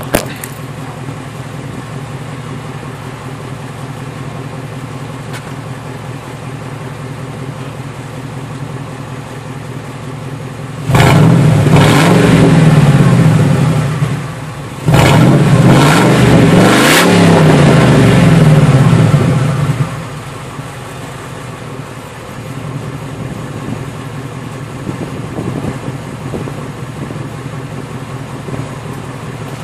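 Ford 5.4-litre V8 with no muffler and the exhaust dumped behind the cab, idling, then blipped up twice, in revs of about three and four seconds, before settling back to idle. Under the idle is a rattle the owner puts down to the catalytic converters, which he is having cut out.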